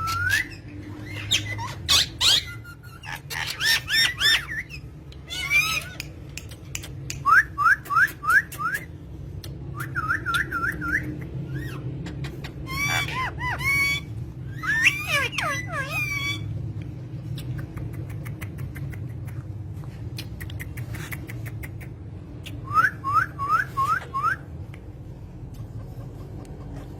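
Bird calls: quick runs of three or four rising whistled notes, repeated several times, between busier chattering calls, over a steady low hum.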